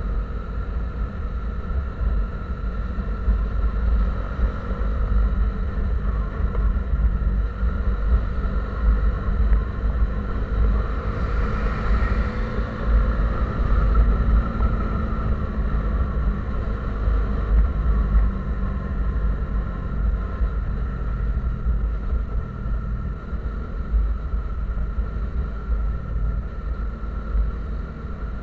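A vehicle on the move: steady engine and road rumble with a heavy low drone, swelling briefly about halfway through.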